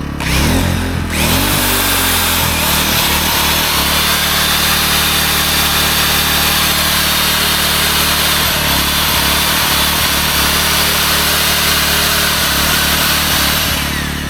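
Corded electric drill (5.5 amps) briefly triggered, then spinning steadily at full speed for about thirteen seconds before stopping near the end. Underneath, the engine of a 1600-watt gas inverter generator runs steadily, handling the drill's load without a problem.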